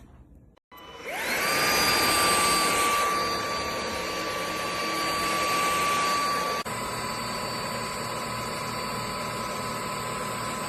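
iXlion cordless stick vacuum's motor switching on about a second in, whining up to speed and running steadily with a rushing of air. About six and a half seconds in, its pitch drops abruptly to a slightly lower, steady whine.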